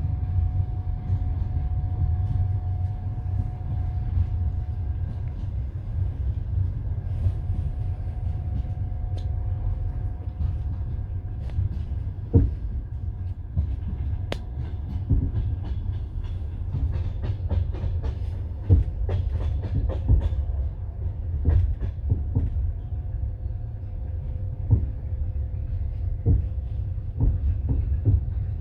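Passenger train wheels running on the rails, heard from inside the carriage: a steady low rumble with irregular sharp clacks over rail joints, which come more often in the second half.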